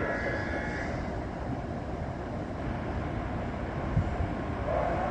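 Tokaido Shinkansen train running through the station: a steady rumble with a high whine that fades in the first second, and a few low thumps about four seconds in.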